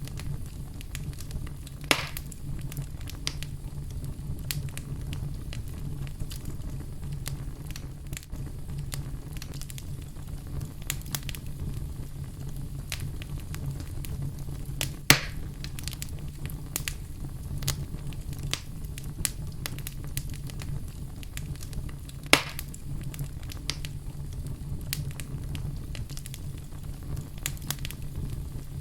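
Wood fire burning in a fireplace: a steady low rumble of flames with frequent small crackles and three louder sharp pops, about 2, 15 and 22 seconds in.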